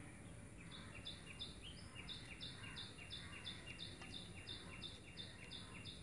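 A bird singing: a quick two-note phrase, a lower note then a higher one, repeated about three times a second, starting just under a second in, over a faint steady hum of outdoor background noise.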